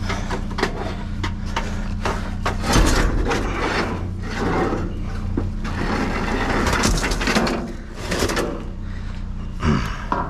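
Irregular knocks, scrapes and rattles of junk and computer cases being shifted around in a dumpster, over a steady low hum.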